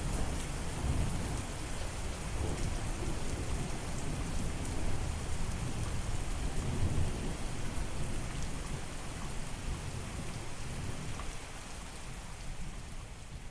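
Steady rain hissing, with a low rolling rumble of thunder underneath that swells and fades.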